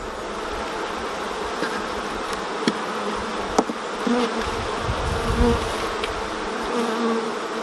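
Honeybee colony buzzing steadily from an open hive, with single bees droning past close by a few times in the second half. Two sharp clicks a second apart, a little before the middle.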